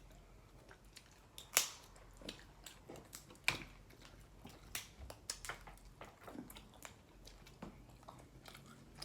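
Eating sounds while picking through a seafood boil: chewing, with scattered sharp cracks and clicks of snow crab shell being broken, the loudest about one and a half and three and a half seconds in.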